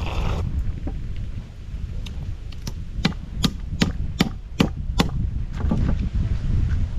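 A cooked mud crab's hard shell being cracked open: about six sharp knocks in quick succession, over a steady low rumble.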